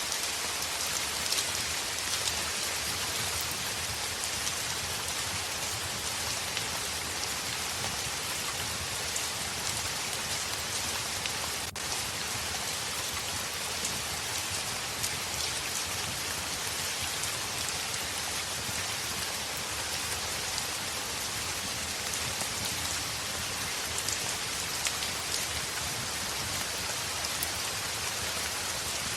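Heavy rain falling on a window: a steady, dense hiss with scattered sharp drop ticks.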